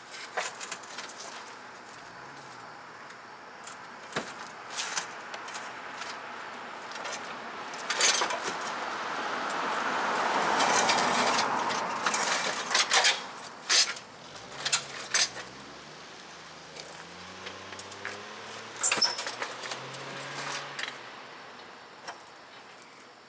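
Scattered metallic clanks and knocks as a steel suspension subframe with its attached steering rack and control arms is worked out from under the car. Partway through, a passing car swells up and fades away.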